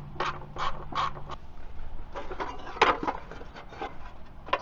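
A ratchet clicking in quick strokes, about three a second, as bolts are worked off the CVT (torque converter) cover of a 2009 Kawasaki Mule 4010, followed by looser clatter of tool and bolts. There is one sharp metallic click a little under three seconds in.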